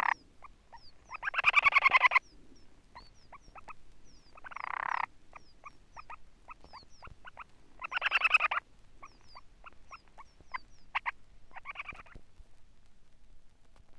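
Sanderling calling: several bursts of rapid, rattling, frog-like trills, with short high downslurred chip notes and scattered ticks between them.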